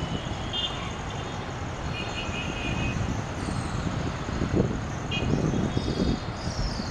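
Steady low rumble of trains running through a railway junction, with a few short high-pitched tones over it.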